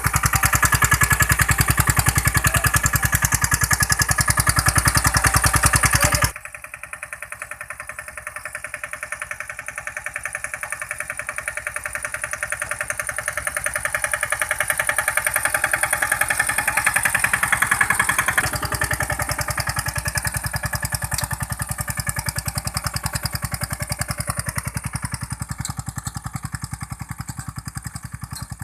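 Three-wheel mini tractor's engine running steadily with a rapid, even firing beat. About six seconds in it drops suddenly to a much lower level, then grows louder again and fades away toward the end as the tractor works along the field.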